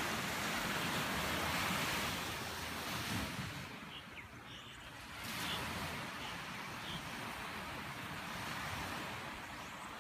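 Steady outdoor rushing noise, like wind or surf, with a few faint, short, high bird chirps between about four and seven seconds in.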